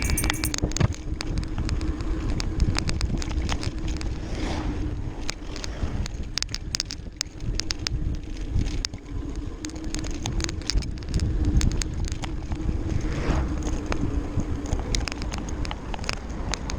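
A bicycle being ridden, with wind rumbling on the microphone, a steady low hum and many small rattling clicks as it rolls over the path.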